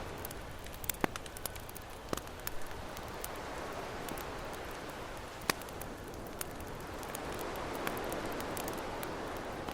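Campfire crackling with scattered sharp pops over a steady wash of ocean waves, a wave swelling up in the second half.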